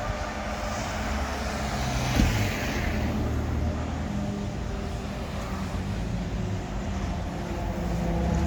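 Street traffic with motor vehicle engines running close by, with a single sharp knock about two seconds in and the engine sound growing louder near the end.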